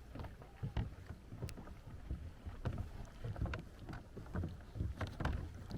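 Kayak paddling on cold, icy water: paddle dips and water sloshing, with many irregular small clicks and knocks over a low wind rumble.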